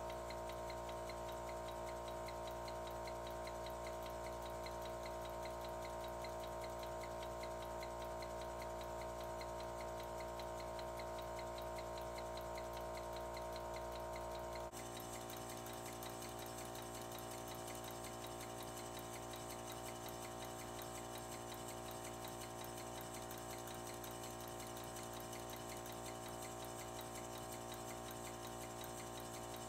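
Accucraft 2-4-0 live steam locomotive running on compressed air with its wheels spinning free off the ground, its cylinders exhausting in a fast, even ticking rhythm over a steady hum. The sound changes abruptly about halfway through.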